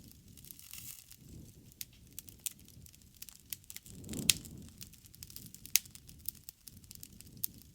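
Wood fire burning: irregular sharp pops and crackles over a low, surging flame rumble, with one loud crack a little over halfway through.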